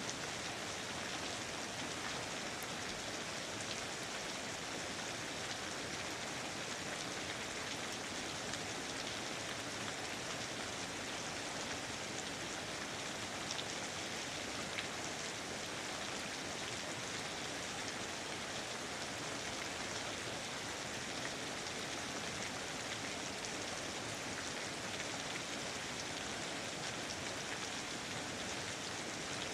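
Steady, even rain falling, with a soft continuous hiss and faint scattered drop ticks.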